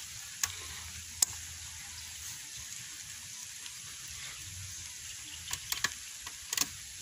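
Steady hiss of light rain falling, with a few short sharp clicks and clinks from barbed wire being wrapped and twisted around a bamboo post.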